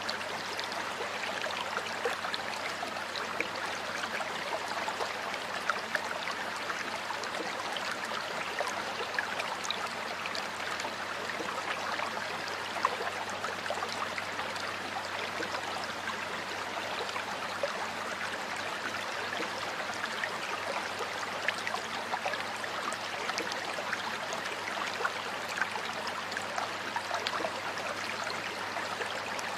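Stream water flowing and trickling steadily over stones, a constant rushing with many small splashes and gurgles.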